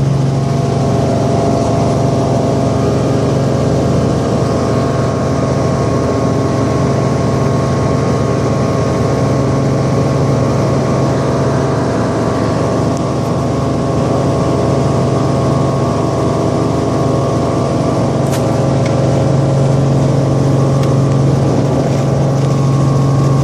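Helicopter engine and rotors running: a loud, steady drone with a strong low hum that holds even throughout.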